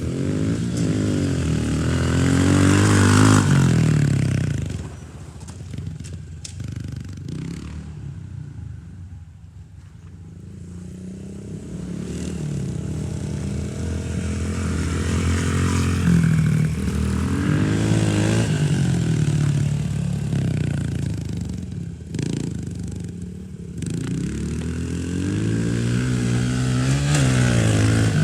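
Dirt bike engine running and revving as it is ridden around, its pitch rising and falling with the throttle. It fades away for several seconds after the first loud stretch and then comes back loud again.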